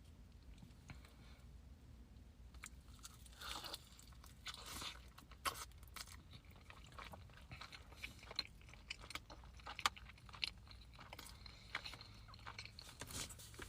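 Close-up eating sounds: faint chewing and crunching with scattered wet mouth clicks, picking up after a few seconds.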